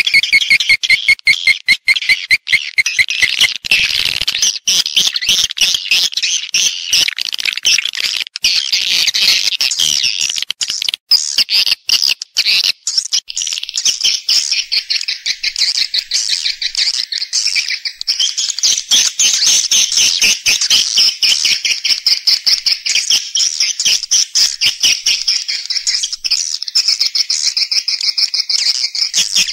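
Swiftlets chirping in a dense, continuous chatter of rapid, high twittering calls, many a second: a recorded swiftlet call-and-roost lure sound of the kind played to attract swiftlets to nest in a swiftlet house.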